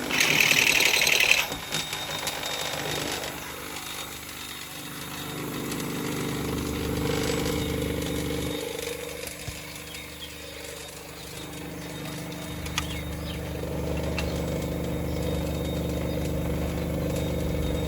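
Toyota Corolla GLI engine running steadily, with a loud noisy burst in the first second and a half. The car is in for a noise complaint that the mechanics are tracing.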